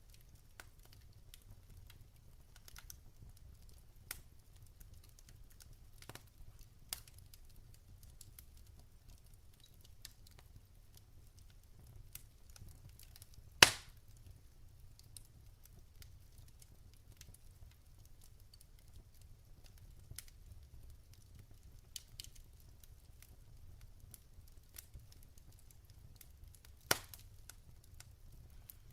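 Wood fire crackling in a fireplace: scattered small crackles from burning logs over a low steady rumble, with a loud sharp pop about halfway through and another near the end.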